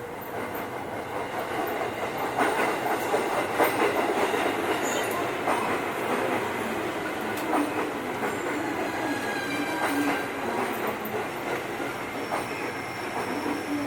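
Tobu 8000 series electric train running, its wheels clattering steadily over the track with many short clicks and a brief faint wheel squeal partway through.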